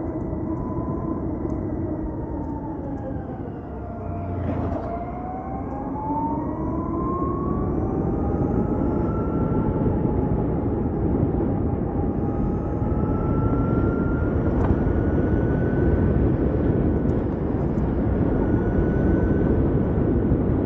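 Ather 450X electric scooter on the move: its motor whine drops as it slows, reaches its lowest about four seconds in, then rises as it speeds up again, over steady wind and road rush that gets louder as speed builds.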